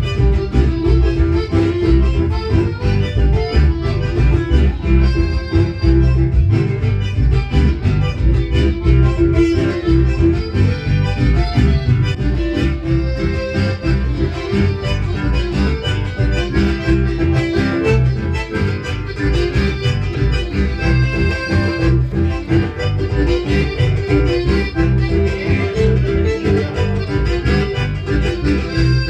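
A band playing instrumental Latin dance music led by accordion, with guitar and bass over a steady beat.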